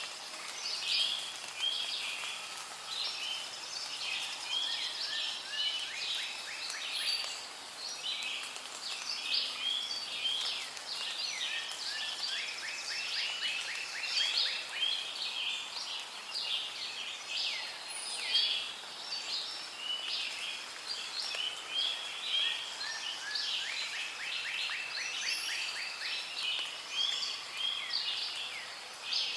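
Rainforest ambience: a dense chorus of many birds chirping and calling over one another, with runs of rapid trilling about halfway through and again near the end.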